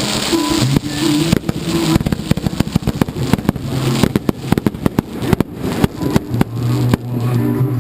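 Consumer fireworks going off in a rapid barrage of sharp bangs and crackles, many reports a second, from about a second and a half in until near the end. Recorded music plays underneath.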